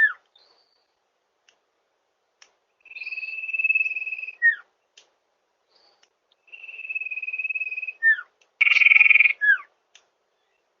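Common iora (cipoh/sirtu) song: long clear whistles held on one pitch and growing louder, each ending in a quick downslurred note. There are three phrases; the last breaks into a short, harsher, louder burst before its downslur.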